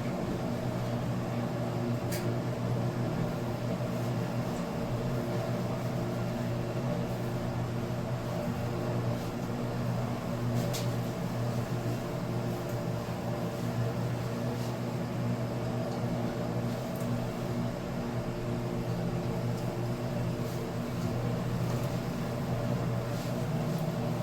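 A steady machine hum, even and unchanging, with two faint clicks, one about two seconds in and one about eleven seconds in.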